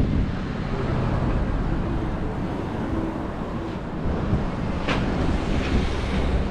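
Wind buffeting the microphone, a low uneven rumble, with a short sharp click about five seconds in.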